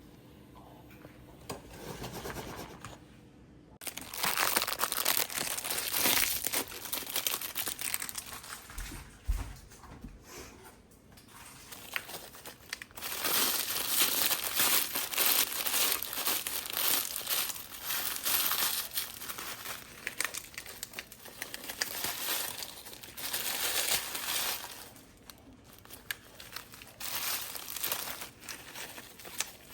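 Crinkling and rustling of packaging being handled, in long stretches starting about four seconds in.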